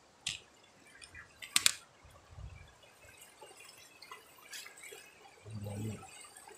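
Scattered drips and clicks of water, with one sharp double click about a second and a half in, and a short low hum near the end.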